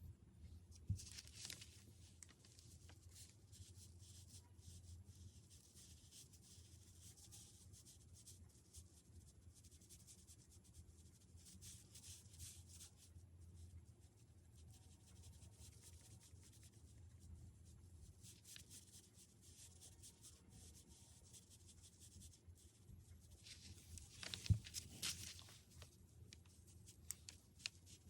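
Faint scratching of a drawing or painting tool on paper, coming in bursts of strokes. A light knock comes about a second in, and a louder one comes near the end.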